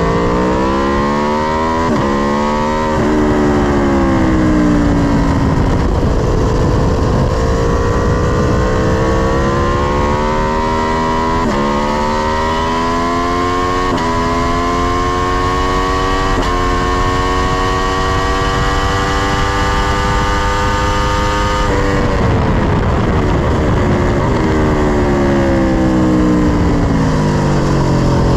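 Sport motorcycle engine at full throttle on a racetrack, its pitch climbing through the revs with a sharp drop at each upshift, about five times. Near the end it falls away steadily under braking and downshifts. Wind rushes past the camera throughout.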